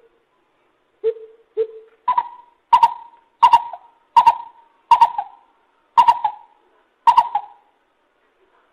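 Lesser coucal calling: two short low notes, then a series of seven louder, higher notes, the gaps between them slowly widening.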